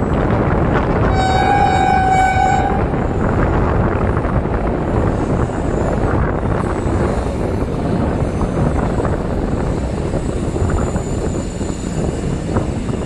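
Passenger train running at speed, heard from aboard a coach: a steady rumble of wheels on the track, with the locomotive's horn sounding once, about a second in, for under two seconds.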